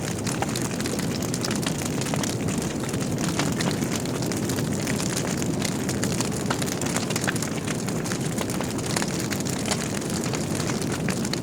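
Wood fire burning in a fireplace: a steady low rush of flames with many small irregular crackles and pops from the burning logs.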